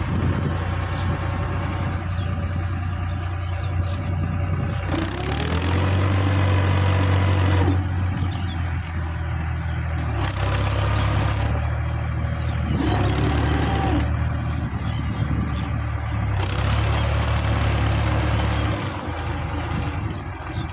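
Case JX55T tractor's diesel engine running, rising to louder, harder-working stretches three times as it is pushed through soft mud. A short whine rises and falls twice.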